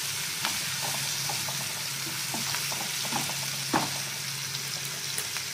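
Cucumber (kakdi) pieces sizzling in hot oil in a kadhai, a steady hiss. A spatula scrapes and taps the pan now and then, with one sharper knock nearly four seconds in.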